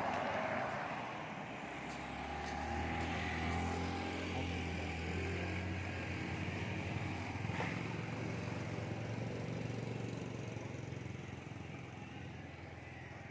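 A motor vehicle's engine running, swelling and then fading away near the end.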